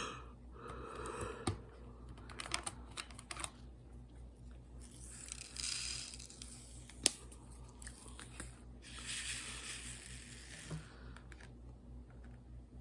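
Close-up handling noises of diamond painting: scattered small clicks and taps, two stretches of crinkly plastic rustle like the canvas's protective film being peeled and smoothed, and one sharp click about seven seconds in, over a low steady hum.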